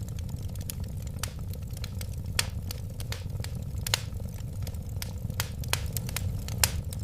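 Wood fire burning steadily with a low rumble of flames and irregular sharp crackles and pops, a few louder pops standing out.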